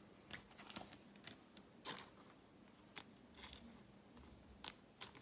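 Faint, scattered clicks and light rustles of trading cards being handled and slid through the hands.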